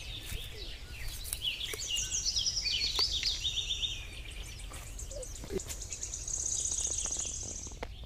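Birds chirping and calling, with a fast, high trill for about a second and a half near the end, over a steady low rumble.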